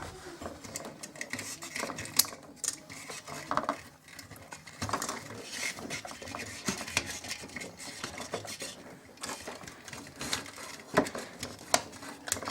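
Irregular clinks, clicks and knocks of small hard objects being handled, with a few louder sharp knocks.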